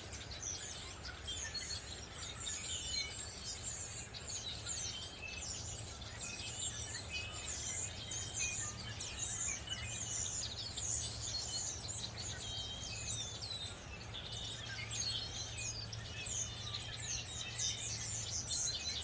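A dense chorus of many wild songbirds chirping, trilling and calling at once, over a steady low hum.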